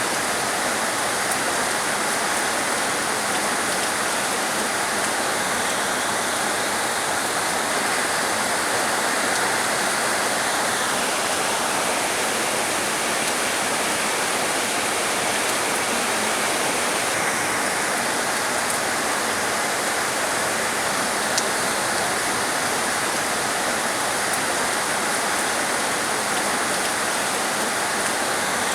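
Heavy rain falling steadily, a dense, even hiss with no letup. The higher part of the hiss thins out for a few seconds in the middle and then returns.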